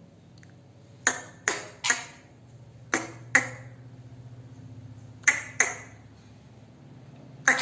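Pet parrot giving short, sharp squawks, about eight in quick groups of two or three.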